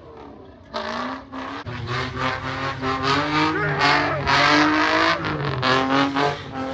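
Car engine revving hard, rising and falling, with its tyres spinning and squealing. The engine and tyres are loudest about four to five seconds in.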